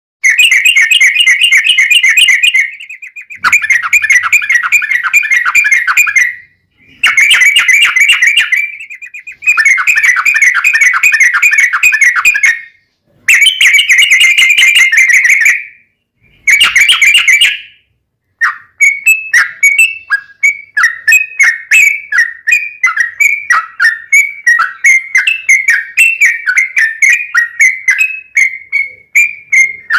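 Yellow-vented bulbul (trucukan) singing loudly: long rapid rolling trills in several bursts of a few seconds each. About two-thirds of the way in they give way to a steady series of separate dipping chirps, about two a second.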